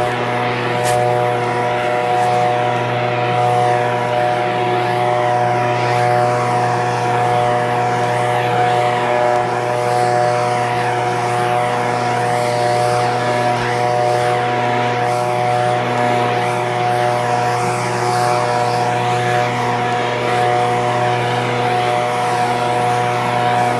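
Echo PB-2620 handheld leaf blower's two-stroke engine running at a steady, unchanging speed.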